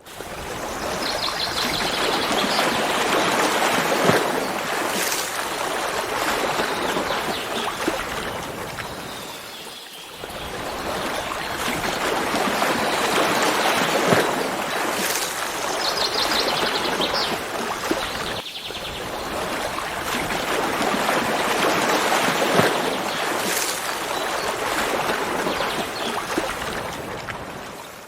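Waterfall or river water rushing, a steady loud splashing noise that dips briefly twice. Short high bird trills come through over it near the start and again past the middle.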